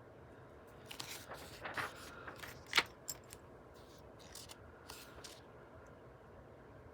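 Paper pages of a book being turned and handled: a run of short rustles and scrapes, with one sharper, louder click about three seconds in.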